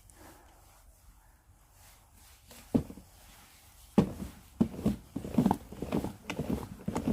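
Irregular thumps and knocks from handling in a kitchen: a single knock about three seconds in, then a quick uneven run of them from about four seconds on.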